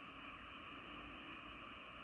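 Chorus of many frogs calling at once from rice paddies, blended into a faint, steady drone with no single call standing out.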